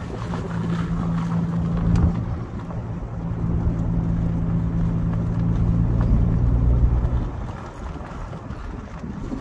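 Ford Mustang's engine running under way, a steady low hum that builds, dips briefly about two seconds in and drops away about seven seconds in, with wind noise over it.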